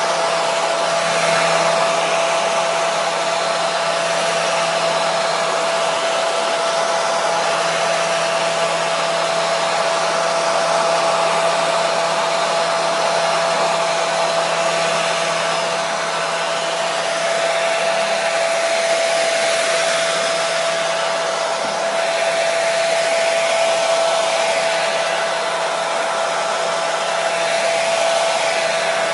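Hair dryer running steadily: a continuous airy rush with a steady high whine from the motor and fan.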